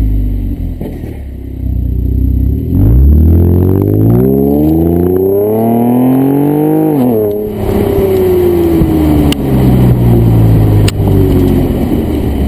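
Holden VE Commodore 3.0 L SIDI V6, with extractors and a stainless Xforce cat-back exhaust, accelerating. Its exhaust note climbs steadily for about four seconds, drops sharply as the throttle closes, and falls away slowly with a couple of sharp cracks before it starts to climb again near the end.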